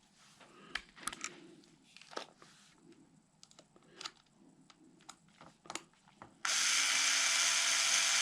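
Light clicks and taps of small metal parts and screws being handled on a workbench. About six and a half seconds in, a power tool, likely a cordless drill or driver, starts suddenly and runs steadily.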